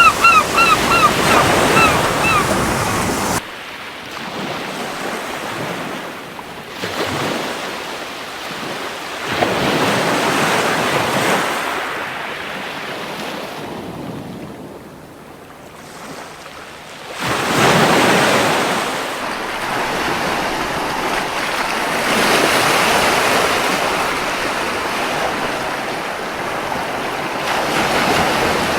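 Sea waves breaking and washing up the beach, swelling and fading in repeated surges, the loudest about 17 seconds in. At the start a seagull gives a quick series of short cries.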